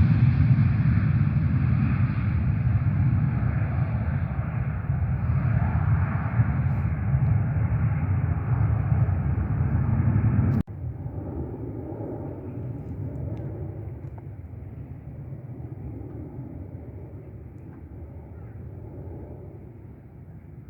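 An airliner's engines, a loud low rumble that slowly fades away. About halfway through it drops abruptly to a quieter rumble, which keeps fading.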